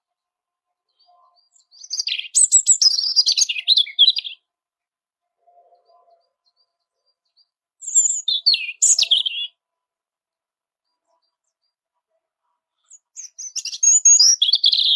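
European robin singing: three short phrases of quick, high, thin warbling, the first about two seconds in, the second near the middle and the third near the end, with silent pauses between.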